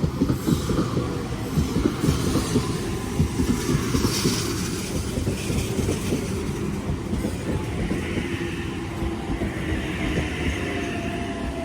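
An H-set (OSCAR) electric multiple-unit train running into the platform, its wheels clattering and rumbling over the rails. A thin whine falls in pitch over the last few seconds as the train slows.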